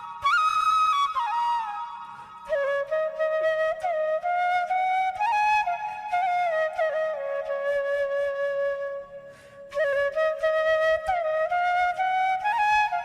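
Background music: a solo flute melody of held notes that slide between pitches, with a short break about three quarters of the way through.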